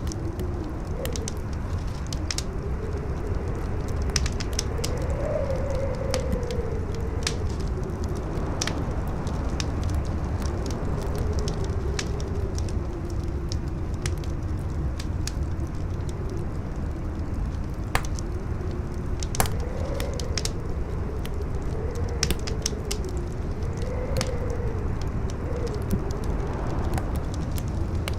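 Campfire crackling, with frequent sharp pops, over wind howling in a wavering tone that rises and falls, and a steady low rumble.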